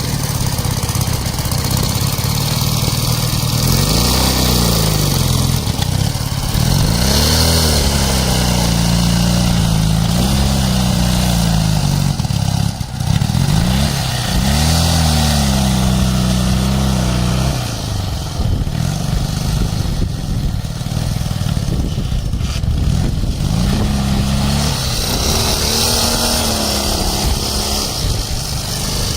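Ural motorcycle's flat-twin engine running and being revved up and down several times, with a steadier, lower-revving stretch in the middle.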